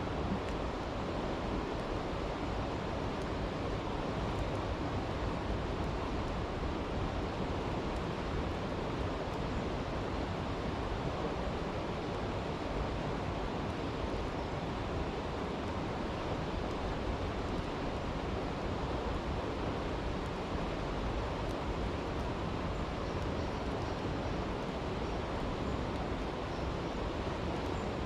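Steady rushing of a brook, with a few faint crackles from a campfire.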